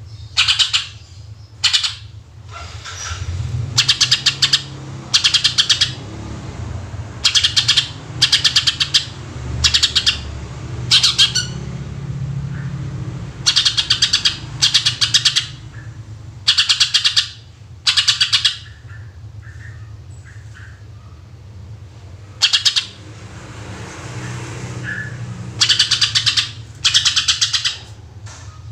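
Greater green leafbird (cucak ijo) singing loud, rapid-fire 'shot' phrases. Each burst is about half a second of fast stuttering notes, repeated every second or two with short pauses. A low rumble runs underneath at times.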